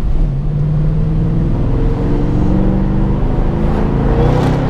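2014 Shelby GT500's supercharged 5.8-litre V8, heard from inside the cabin, running under load as the car accelerates. Its pitch holds steady at first, then rises over the last couple of seconds.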